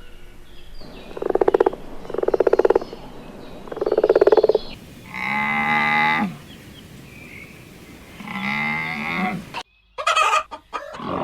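Animal calls: three short rasping croaks about a second apart, then two longer, higher calls, with a cut to a different sound near the end.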